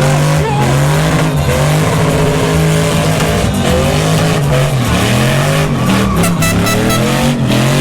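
A pickup truck doing a burnout: the engine is held at high revs while the spinning rear tyres squeal. Its pitch wavers up and down, with brief dropouts.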